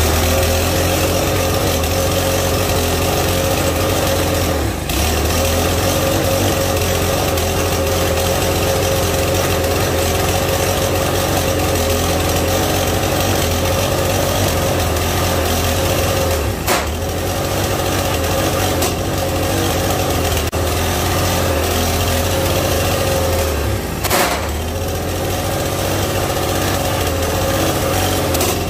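Briggs & Stratton 5.5 hp single-cylinder lawn mower engine running flat out, ungoverned with the governor pinned wide open, with no oil in it and a severely bent crankshaft. It starts abruptly and runs steadily, with three brief stumbles.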